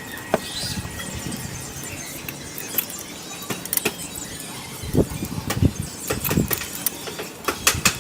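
Close-up eating sounds: wet chewing and lip smacking, with sharp clicks and squelches that come thicker near the end.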